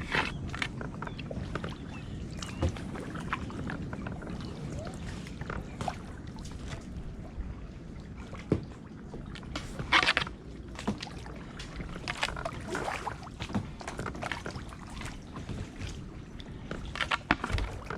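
Kayak paddling: paddle blades dipping and dripping, with scattered light knocks and clicks, a louder splash about ten seconds in and a cluster of knocks near the end.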